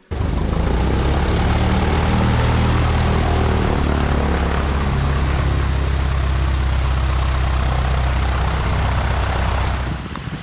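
Piper Cherokee 140's four-cylinder Lycoming engine and propeller running steadily, a low drone heard from the cockpit, dropping in level near the end.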